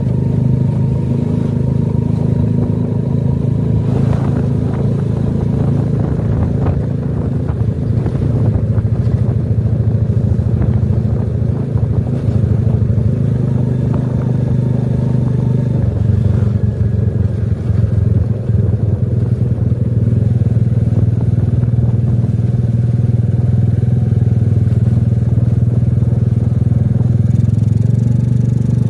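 Small engine running steadily under way at an even pace, with some light rattling, its note shifting slightly about halfway through.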